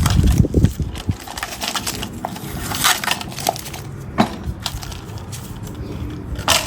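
Hands handling a small plastic RC monster truck and its parts: an irregular run of clicks, knocks and light rattles, with a few heavier thumps in the first second and a sharp knock near the end.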